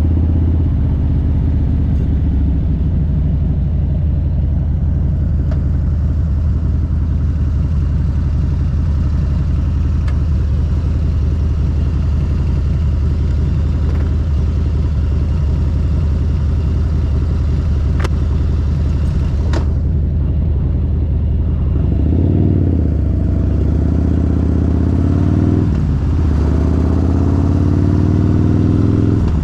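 Harley-Davidson motorcycle's V-twin engine running steadily under way. About three quarters of the way through, its pitch rises and falls a few times as the throttle is opened and closed.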